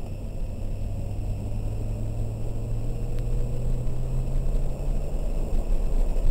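2003 BMW 330i ZHP's 3.0-litre straight-six accelerating, heard from inside the cabin, its note rising slowly until it drops away about five seconds in. A steady low rumble of tyres and road noise runs underneath.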